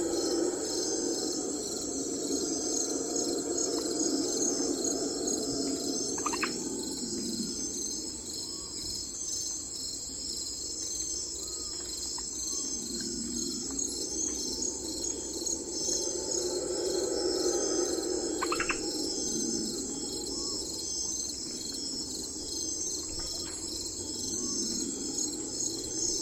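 Steady chorus of chirping insects, with a few short bird chirps. Underneath, a lower sound swells and fades in slow waves.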